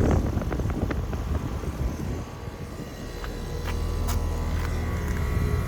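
Outdoor air-conditioner condensing unit running: a steady hum of compressor and fan that settles in about two seconds in, with a few sharp clicks. Wind rumbles on the microphone at the start.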